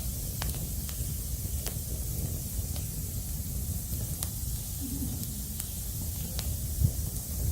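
Wood fire crackling: a steady hiss and low rumble with sparse, irregular sharp pops.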